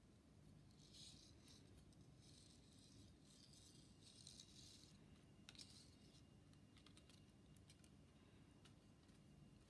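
Near silence with faint rustling and scraping at intervals and a few light clicks about halfway through, like small parts being handled.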